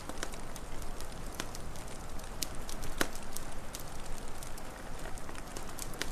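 Wood fire crackling: a steady low rumble of flame with irregular sharp pops and snaps, the loudest about halfway through.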